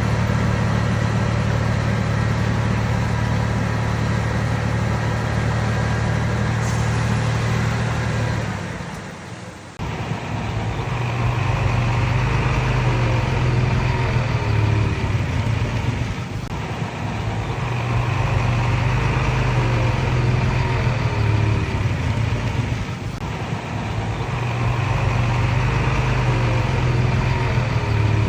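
Diesel engine of a Komatsu D31PX bulldozer running steadily. After a sudden break about nine seconds in, it swells and eases in repeated surges a few seconds long.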